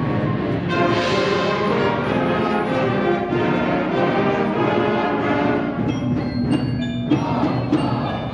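Middle school concert band playing loudly, led by brass with percussion: full sustained brass chords.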